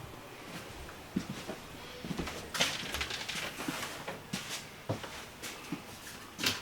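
Faint, scattered light knocks and clicks in a small room.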